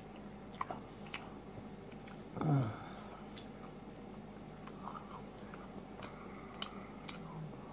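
Quiet close-up chewing and wet mouth clicks of someone eating, with a short low hum, falling in pitch, about two and a half seconds in.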